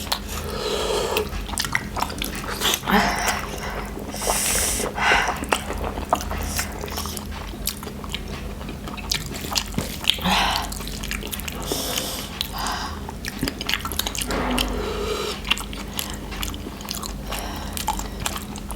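Spicy noodles being eaten up close: irregular chewing and slurping mouth noises, over a steady low hum.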